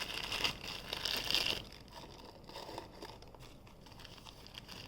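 Rustling and crinkling of small dresses being handled and pushed into a plastic toy washing machine, loudest in the first second and a half, then fainter scattered rustles and light clicks.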